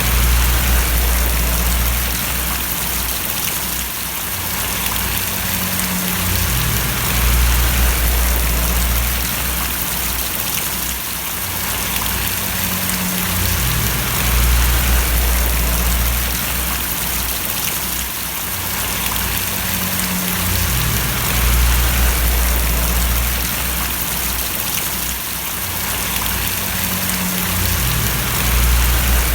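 Steady rain splashing, an even hiss of falling water. Under it runs a low hum that swells and fades about every seven seconds.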